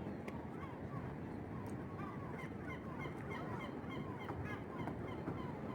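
Seagulls calling: a run of short, falling cries that come several a second from about two seconds in, over a steady low background rumble.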